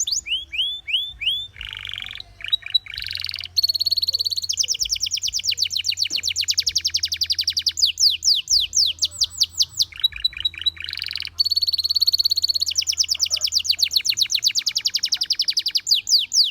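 Gloster canary singing a long run of fast trilled rolls, each phrase a quick series of repeated notes, changing pitch and speed every second or two.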